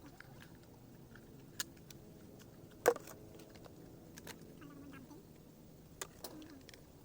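Dried bottle gourd shells being struck and cracked open to free the seeds: a few sharp knocks, the loudest about three seconds in, with two small ones near the end.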